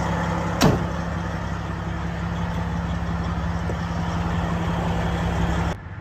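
Semi-truck diesel engine idling steadily while it warms up. There is one sharp clack about half a second in, and the engine sound cuts off abruptly near the end.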